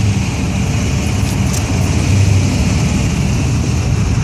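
Car engine running with a low, steady rumble as a car rolls slowly past in a line of cruising classic cars.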